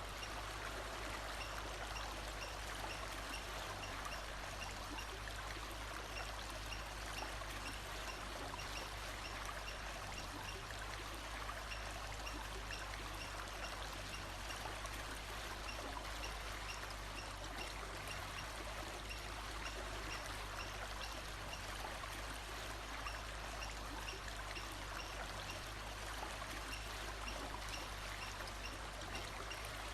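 Steady rush of flowing stream water, even and unbroken, with faint high chirps repeating at even spacing behind it.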